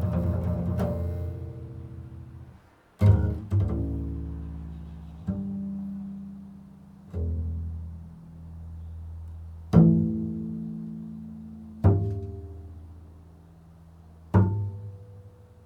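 Improvised solo music on a low-pitched plucked string instrument. A ringing chord dies away, then single low notes are plucked a few seconds apart, each left to ring out and fade.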